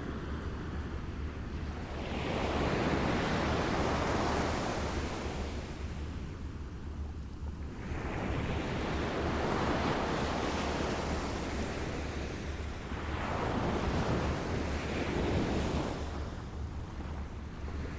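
Waves lapping: three swells of washing water, each building and ebbing over a few seconds, about every five seconds.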